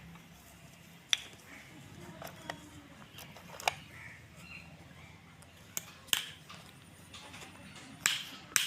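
Hammer blows on wood, about eight sharp, irregularly spaced knocks, from workers building a wooden frame structure.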